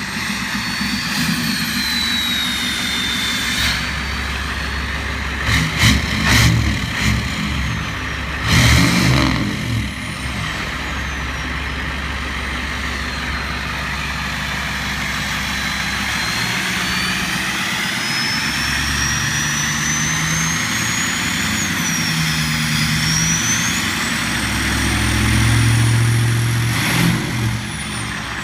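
Ford turbo-diesel pickup engine running and being revved, its turbocharger whistle a high tone that glides up and down with the revs. A few short, sharp throttle blips come in the first third, and a longer rev swells near the end.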